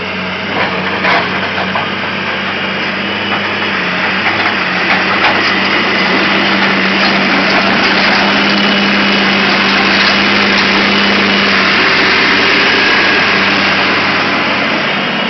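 Excavator engine running steadily with a constant hum, getting a little louder through the middle, with a few clicks about a second in.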